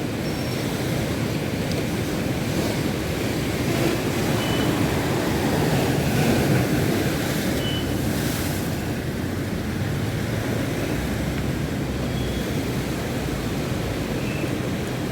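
Rough monsoon sea: surf rolling in continuously with wind buffeting the microphone, a wave swelling louder about halfway through, with a brief hissing wash soon after.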